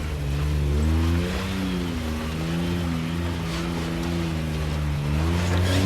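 Off-road vehicle engine rock crawling over steep rocks, the revs rising and falling with the throttle: a climb in pitch about a second in, a steady stretch in the middle, and another rise near the end.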